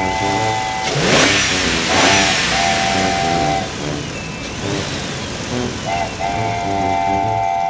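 A cartoon sound effect of a car accelerating, with loud rushing revs about one and two seconds in and gliding tones a few seconds later. It plays over background music with a steady beat and held chords.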